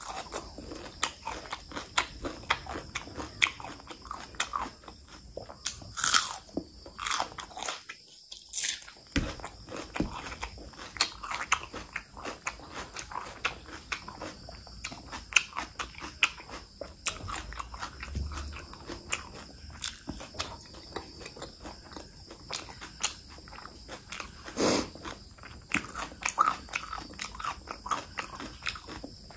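Close-miked eating of spicy chicken curry: a bite, then continuous chewing and crunching, full of short sharp mouth clicks, with a few louder crunches along the way.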